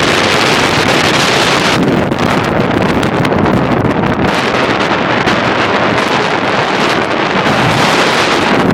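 Wind buffeting a phone microphone at speed, a loud steady rush over vehicle road noise, recorded from the open back of a fast-moving truck.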